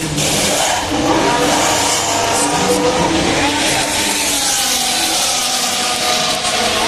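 Formula 1 cars' 1.6-litre V6 turbo-hybrid engines running at speed past the grandstand, a loud steady engine note whose pitch slowly falls from about the middle on.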